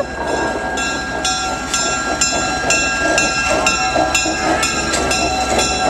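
Locomotive bell ringing about twice a second as the train runs by, over the steady low rumble of the train.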